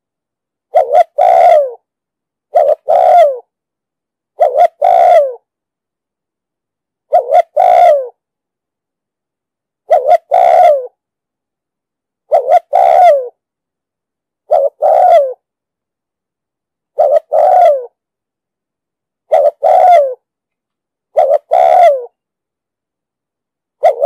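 Spotted dove cooing. It gives eleven short two-part coos about every two seconds, each a brief note followed by a longer one that falls in pitch at the end.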